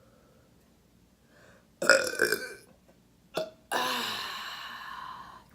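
A woman burps loudly twice after eating: a short burp about two seconds in, then a long drawn-out belch that lasts nearly two seconds near the end.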